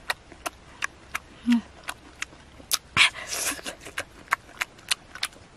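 Close-up chewing of soft ripe jackfruit flesh: wet lip smacks and mouth clicks about three times a second, with a short breathy slurp about three seconds in.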